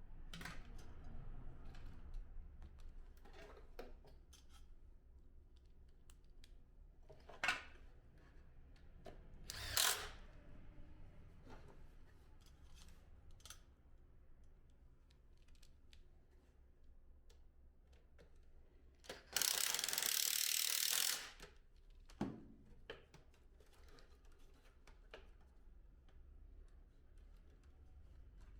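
Scattered clicks and knocks of plastic parts and hand tools being handled while an air conditioner indoor unit is put back together. There is one sharp click about a third of the way in, and a steady hiss of about two seconds roughly two-thirds of the way through.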